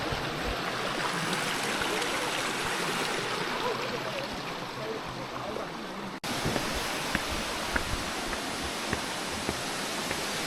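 Mountain stream rushing steadily over rocks. The sound drops out for an instant about six seconds in, then the water resumes, with a few faint ticks over it.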